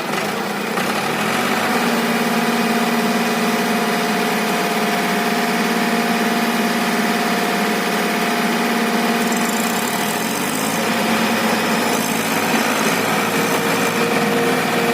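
Tractor diesel engine running under throttle: it revs up over the first couple of seconds, holds steady, then drops about ten seconds in and picks up again.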